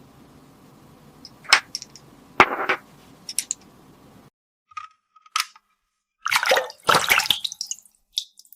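Sharp plastic clicks and taps from a toy aquarium fishing playset, then water splashing and dripping. A faint steady hum underneath cuts off suddenly about four seconds in, and the splashing comes a couple of seconds later.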